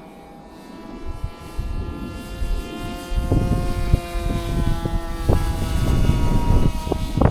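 Electric motor and propeller of a Flite Test Space Fighter foam RC plane in flight, a steady whine that grows louder while its pitch drifts slowly down as the plane passes. Wind buffets the microphone in irregular low surges from a few seconds in.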